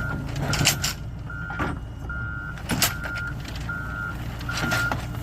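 A vehicle's reversing alarm beeping at a steady pitch, about one beep every 0.8 seconds, over a low diesel engine running, with a few short knocks in between.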